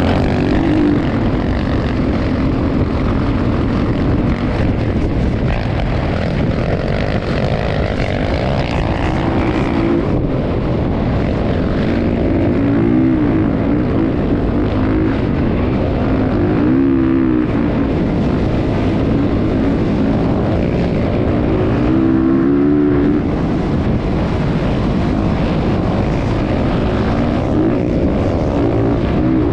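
Motocross dirt bike engine running hard, its pitch rising and falling again and again with the throttle.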